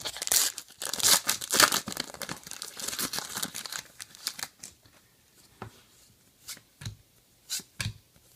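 Foil trading-card pack wrapper being torn open and crinkled for about the first four seconds, then several separate light taps.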